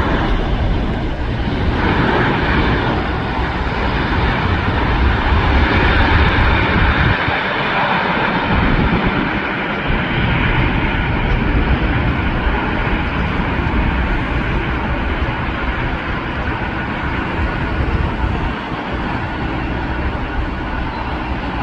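Jet airliner engines, a loud steady rumble with a broad hiss, swelling to its loudest about six seconds in and then holding slightly lower.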